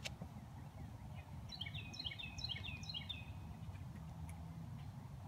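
A songbird singing a quick run of repeated chirping notes from about a second and a half in, for under two seconds, over a low steady outdoor rumble.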